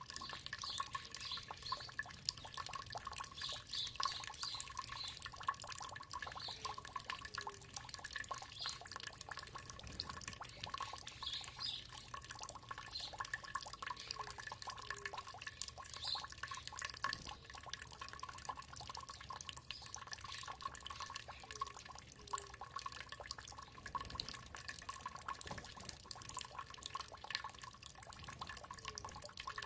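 Water trickling and dripping steadily, with short bird chirps scattered through, and two faint steady tones underneath.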